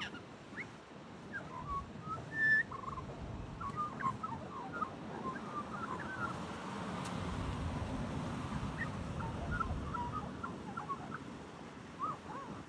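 Magpie calling a varied, rambling run of short whistles, chirps and warbles, one note after another, with a low background rumble in the middle stretch.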